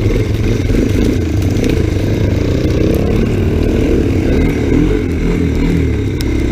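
Small off-road motorbike engine running under way in snow, its pitch rising and falling with the throttle.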